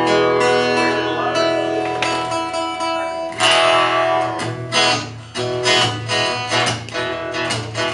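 Acoustic guitar strummed in a run of chords that ring on between strokes.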